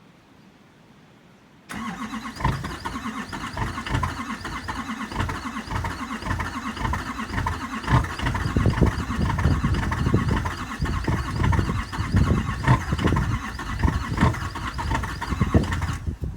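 2013 LML Duramax 6.6-litre V8 turbodiesel cold-starting in about 3-degree cold: it fires abruptly about two seconds in and runs with uneven low pulses and clatter. The sound drops off sharply near the end.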